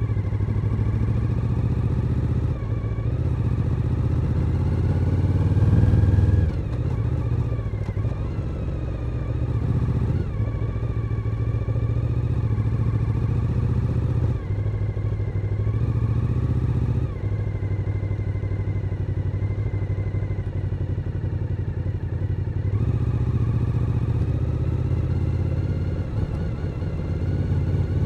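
Suzuki SV1000N's 996 cc V-twin engine running under way, its note rising and dropping several times as the throttle opens and closes. It is loudest about six seconds in.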